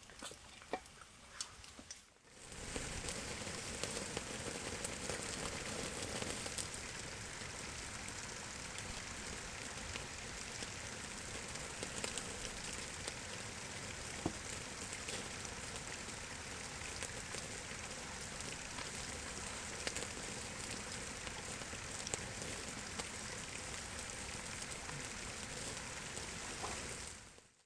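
Steady rain falling: a dense, even hiss with scattered sharp drop ticks, starting abruptly about two seconds in and cutting off near the end.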